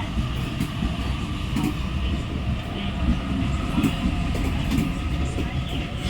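Sydney Trains Waratah B-set electric train (B26) moving off past the platform: a continuous rumble of wheels on rail with a steady whine over it and scattered clicks from the wheels.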